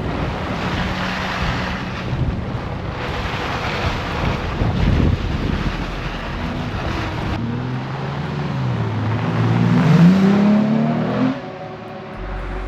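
Truck driving, with a steady rush of wind and road noise. Its engine revs up, pitch climbing and dipping, and grows loudest shortly before the sound cuts off suddenly about eleven seconds in.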